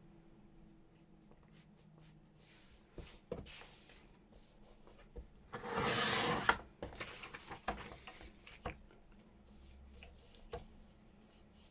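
A dictionary page being trimmed: a few light taps and clicks as the paper is handled, then one rasping stroke about a second long, about six seconds in, as the top strip comes off, followed by light paper rustles and ticks.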